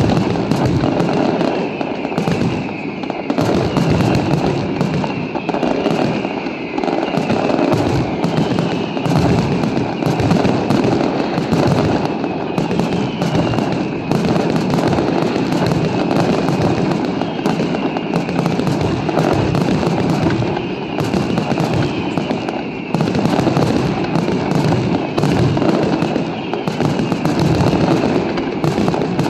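Aerial fireworks display: a dense, continuous barrage of bursting shells and crackle with no break.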